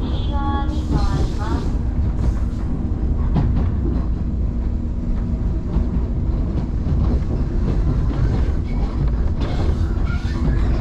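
JR Kusatsu Line electric train running between stations, heard from inside the car: a steady rumble with a faint hum and occasional clicks from the rails. A voice is heard briefly at the start and again near the end.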